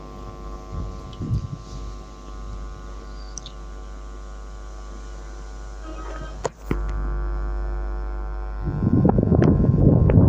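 Steady low hum with a stack of steady tones above it, a single click about six and a half seconds in, then a louder rough rumble starting near the end.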